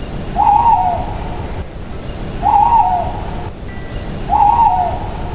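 Owl hooting three times, about two seconds apart, over a steady rushing background noise.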